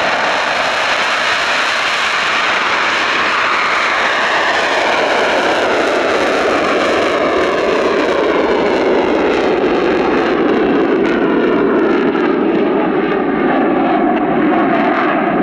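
Eurofighter Typhoon's twin jet engines, a loud steady roar from a fast jet moving past, whose tone slowly sweeps downward in pitch as it goes.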